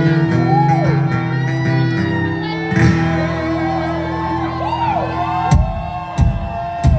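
Acoustic string band playing an instrumental break: strummed acoustic guitar under a fiddle whose notes swoop up and down.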